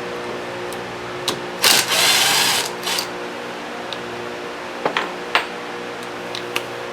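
A short, loud burst of a pneumatic tool, with a hiss of air, about a second and a half in, and a few sharp metal clinks from loosening a small bracket on the compressor pump. Under it the steady hum of a shop fan.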